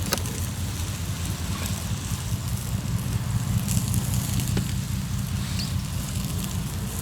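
Hardwood campfire crackling, with a few sharp pops, over a steady low rumble.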